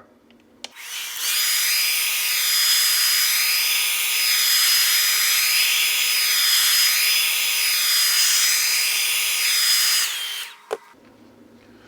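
Hairdryer blowing steadily with a high whine, switched on about a second in and cut off near the end. Its sound wavers in a slow regular rhythm as it is swept around the edge of the iPad screen, heating it to soften the adhesive.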